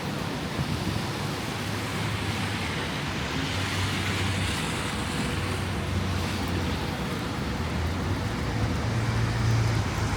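Steady city street noise: traffic rumble under an even rushing hiss, typical of strong wind.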